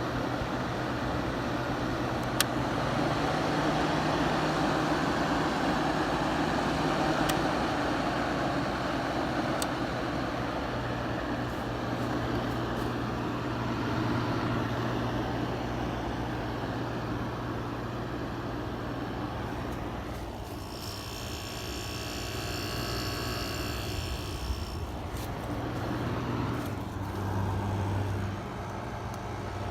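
1986 Kenmore 5,000 BTU window air conditioner running steadily, its fan rushing air over a constant low hum. About twenty seconds in, a brief high-pitched whine made of many tones joins it for about four seconds.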